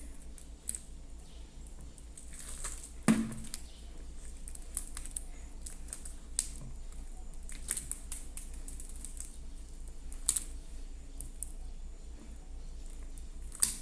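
A large mass of soft, sticky slime being mixed and kneaded by hand, giving irregular wet clicks and pops, with one louder pop about three seconds in.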